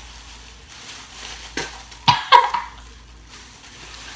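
A girl coughing and gagging over a plastic bag as she spits out a nasty-tasting Bean Boozled jelly bean: a small burst, then two loud coughs just after two seconds in.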